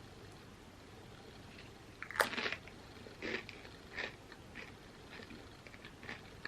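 A crisp bite into a crunchy chip about two seconds in, then crunchy chewing, one crunch roughly every second.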